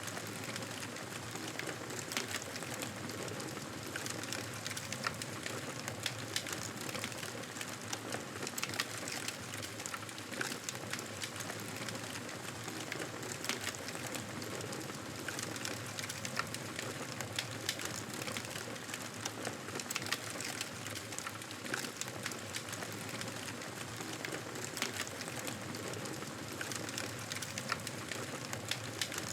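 Wood fire crackling in a fireplace: a steady hiss with frequent small sharp pops and snaps scattered throughout.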